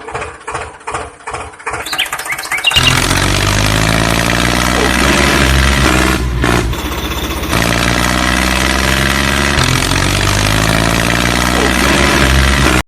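Engine-like motor sound, chugging in quick pulses at first, then running steadily and loud from about three seconds in with a slightly wavering pitch, cutting off abruptly at the end.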